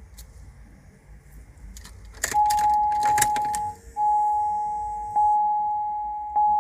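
A brief rattle of keys, then the vehicle's electronic warning chime: one clear tone that starts, fades away and starts again about every second.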